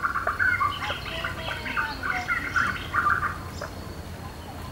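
Birds chirping and chattering in a busy chorus, thinning out after about three seconds.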